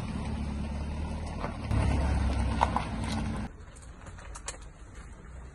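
Low engine rumble of a sedan driving slowly past close by, louder about two seconds in. About three and a half seconds in it cuts off suddenly, leaving quieter outdoor background with a few faint clicks.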